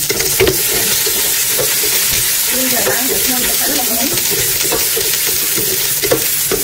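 Lemongrass and other aromatics sizzling in hot oil in a large aluminium pot, stirred with a wooden spatula that scrapes and knocks against the pot now and then over a steady frying hiss.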